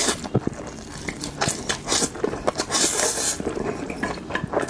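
Close-miked eating: utensils clicking and scraping against a bowl of mixed noodles, with a run of short knocks and a louder hissy stretch about three seconds in.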